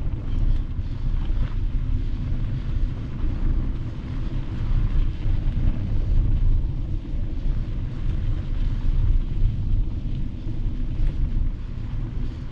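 Wind buffeting the microphone of a mountain bike riding on a gravel road: a steady, uneven low rumble with a rough hiss over it.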